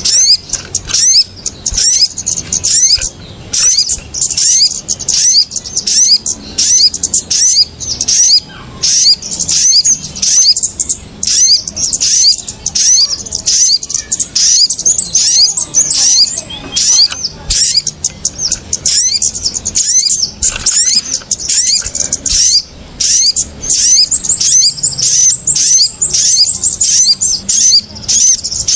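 Bird-lure recording of small birds calling noisily: a dense run of rapid, high-pitched chirps and short sliding squeaks, several a second with no pause. The calls are those of the kemade and the sogon (sogok ontong, the little spiderhunter), mixed together as a lure call.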